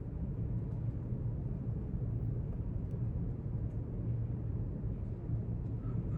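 Steady low rumble of a quiet library's room tone, with a few faint ticks.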